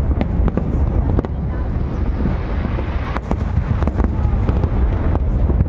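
Aerial fireworks bursting in a dense barrage: a continuous low rumble of shell bursts with many sharp cracks and crackling stars through it.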